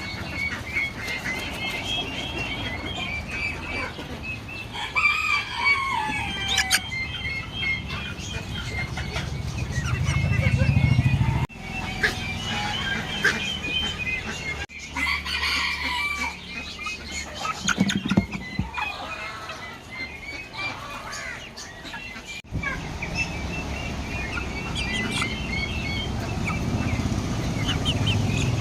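Aseel chicks peeping in many short, high chirps, with calls from adult fowl mixed in. The sound changes abruptly twice, about a third and two thirds of the way through, as if spliced.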